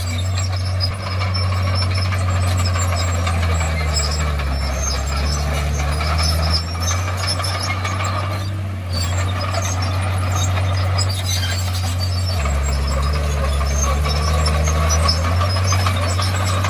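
Diesel engine of a Komatsu D51PX crawler bulldozer running with a steady low drone that deepens twice for a few seconds, about four seconds in and again about twelve seconds in. Scattered clanking and rattling sounds over it.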